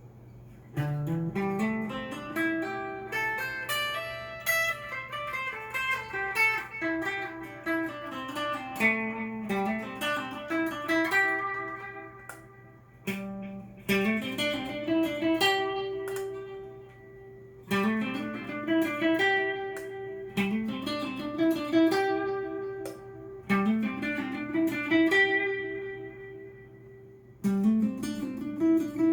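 Cort S series electric guitar played straight into a Fender amp: melodic phrases of single notes, several opening with a slide up in pitch and starting again every few seconds. A low steady hum runs underneath.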